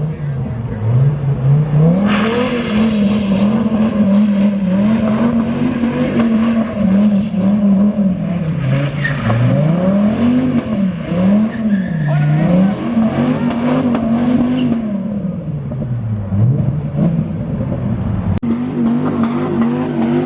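Car engine revved hard over and over, its pitch climbing, holding and dropping again and again. A rushing hiss sits above it from about two seconds in until near the end.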